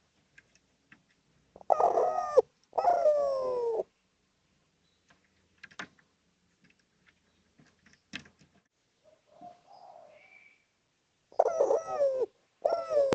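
Spotted dove (derkuku) cooing: two calls in quick succession, each falling in pitch, then a pause with a few faint clicks, and two more calls near the end.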